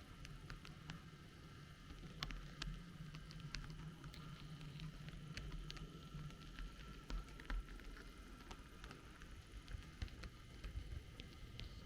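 H0-scale model train rolling along the track: a low steady rumble from the running gear and a faint steady whine, with irregular sharp clicks as the wheels cross rail joints and points.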